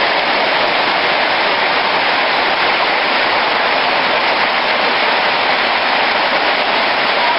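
Heavy rain falling steadily, a loud, even hiss of downpour.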